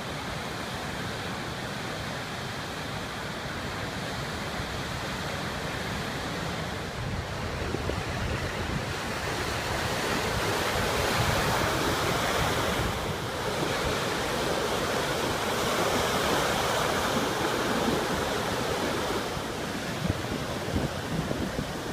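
Ocean surf breaking, a steady rushing wash that swells louder from about halfway through. Wind rumbles on the phone's microphone underneath.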